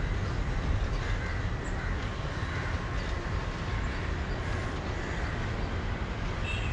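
Distant train approaching along the line, heard as a steady low rumble under general outdoor background noise.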